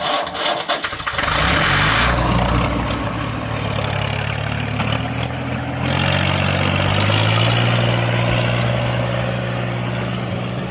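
Small engine running steadily under a mechanical rattle, its pitch stepping up about a second and a half in and again about halfway through. A few knocks come in the first second.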